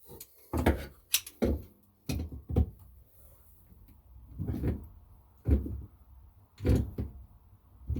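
Irregular knocks and clunks of hands and a tool working inside the sink cabinet as the pop-up drain assembly's nut is tightened beneath the basin. About ten knocks, a few sharp, the later ones duller and longer.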